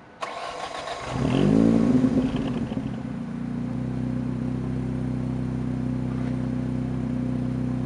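A 2004 Ford Focus SVT's 2.0-litre four-cylinder, breathing through a catalytic-converter delete and a full Borla exhaust, starting up. The starter cranks briefly, the engine catches about a second in and flares up, then drops back to a steady idle by about three seconds.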